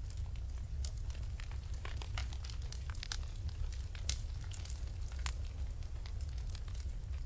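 Wood fire burning in a fireplace: a steady low rumble of the flames with irregular sharp crackles and pops, one louder pop about four seconds in.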